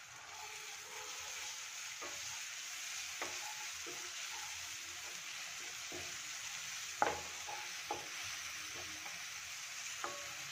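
Chopped onions and ginger-garlic paste sizzling in oil in a nonstick kadhai, stirred with a wooden spatula, with a steady frying hiss. The spatula knocks against the pan a few times, loudest about seven seconds in.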